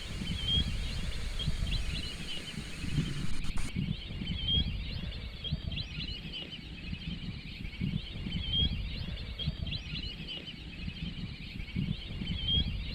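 A chorus of many wild birds calling: short high chirps and whistles repeating without pause over a low rumble of wind.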